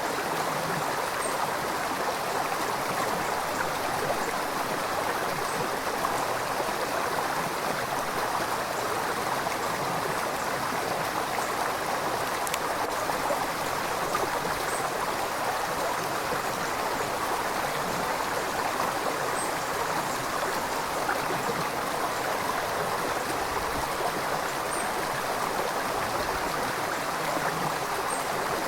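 River water flowing and splashing steadily, a continuous even rush.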